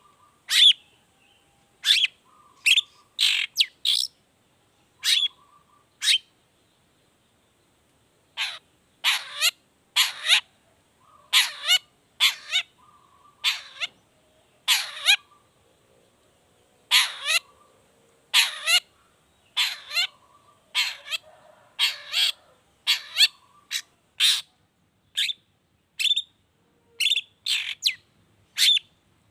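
Long-tailed shrike (cendet) giving short, sharp calls about once a second, with a pause of about two seconds early on. This is a trigger recording of a shrike in full song, played to provoke caged shrikes into singing.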